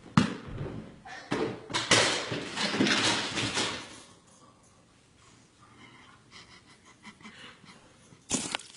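Volleyball being struck, with sharp thuds near the start and again near the end, and a couple of seconds of dense noise after the third hit.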